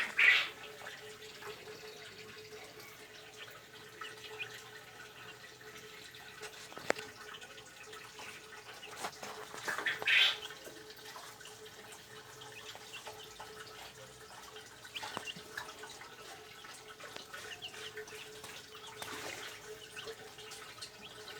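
Caged birds eating and drinking: scattered small clicks of pecking, with a short high bird call right at the start and another about ten seconds in, over a steady hum.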